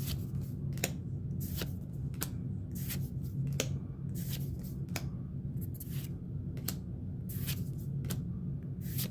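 Pokémon trading cards being handled and slid one by one from a freshly opened booster pack: a series of short, sharp snaps at irregular intervals, over a steady low hum.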